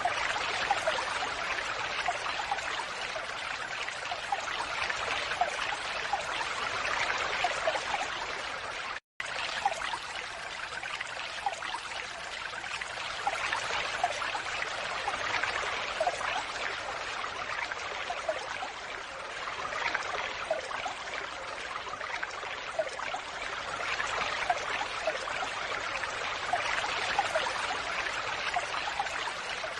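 Falling water splashing and trickling steadily, with many small drips and splashes; it cuts out completely for a split second about nine seconds in.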